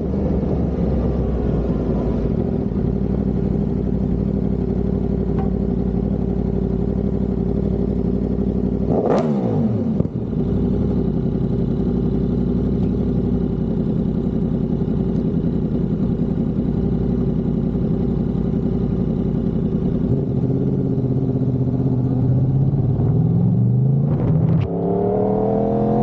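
Yamaha R1 inline-four engine idling steadily, with one quick blip of the throttle about nine seconds in. Near the end the revs climb, drop briefly and climb again as it accelerates.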